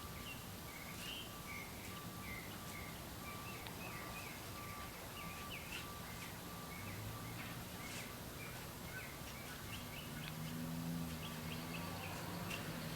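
Small birds chirping: many short, quick chirps in a steady run, faint, with a low steady hum rising a little about ten seconds in.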